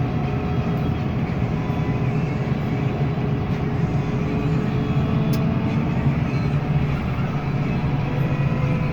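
Vehicle engine running steadily while under way, a constant low drone with faint held tones over it.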